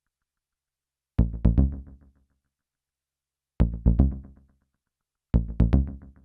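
Behringer Neutron synth bass played through an MXR Carbon Copy analog delay: three short bursts of a few quick low notes, each trailing off in fading echo repeats, with silence between the bursts.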